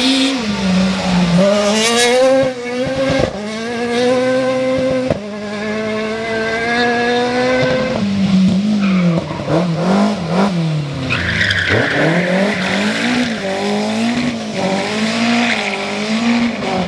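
Rally car engine revving hard, its pitch climbing through each gear and dropping sharply at the shifts, then rising and falling quickly several times. A hissing noise joins it for several seconds past the middle.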